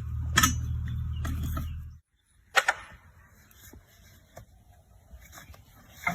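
A machine running with a steady low hum and a couple of metallic clanks, cutting off abruptly about two seconds in. Then comes one sharp metallic clank, followed by faint scattered ticks.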